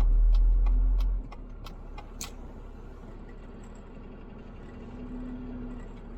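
Vehicle engine and road rumble heard from inside the cab, loud and low for about a second and then dropping away to a quieter steady hum. A run of light ticks, about three a second, sounds over the first couple of seconds.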